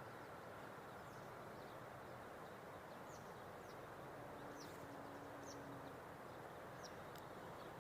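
Faint outdoor quiet: a small bird giving short, high, falling chirps about once a second over a steady low hiss.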